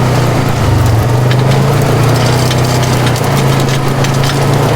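Polaris RZR 570 side-by-side's single-cylinder engine running steadily at low speed, with frequent knocks and rattles as it crawls over a rough, rocky dirt track.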